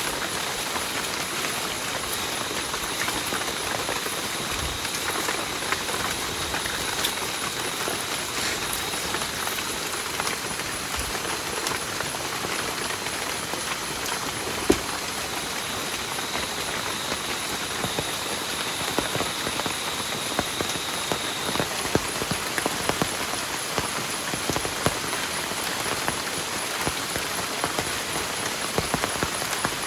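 Heavy rain falling steadily on a shelter's tarp and the forest around it, with many close drops ticking on the sheet and a few louder single drips, one sharper hit about halfway through.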